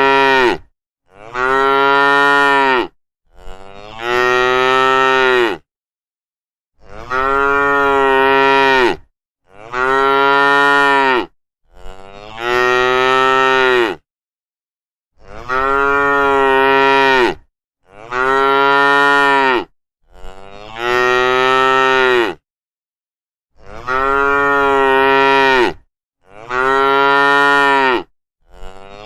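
Cattle mooing: a long series of loud moos, each about two seconds long, coming one after another with short gaps between.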